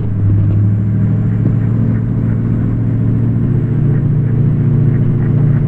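Ford 6.0 Power Stroke V8 turbo-diesel pickup working hard under heavy load, towing a loaded dump truck uphill in low range. A loud, steady low drone.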